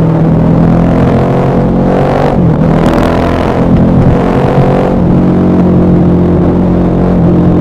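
KTM 1190 Adventure R's LC8 V-twin engine running loud under riding. Its pitch climbs for about two seconds, drops sharply about two and a half seconds in, then holds fairly steady.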